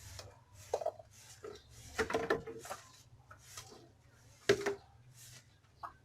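Household objects being handled and moved about: an irregular string of knocks and clatters with short scraping noises, the loudest a sharp knock about four and a half seconds in.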